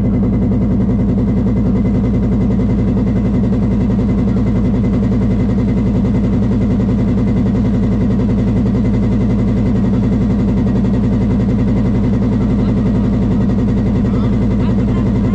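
Boat engine running steadily at a constant speed, a loud low hum with rapid even pulsing.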